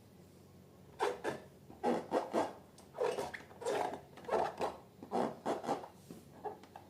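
Hands working balloons and slime: a series of about a dozen short rubbing, scraping strokes, often in quick pairs, starting about a second in and easing off near the end.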